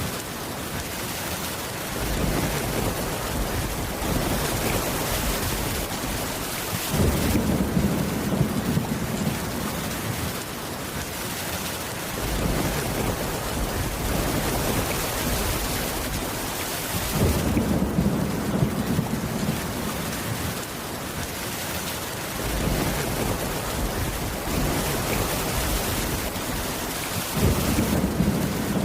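Steady heavy rain, with low rolling thunder rumbles swelling up three times, about ten seconds apart.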